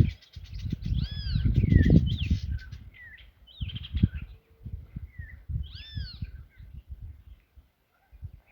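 Wild birds calling at a water trough: rapid chattering and several arched, up-and-down calls, thinning out after the first few seconds. Under the calls there is an irregular low rumbling, loudest in the first couple of seconds.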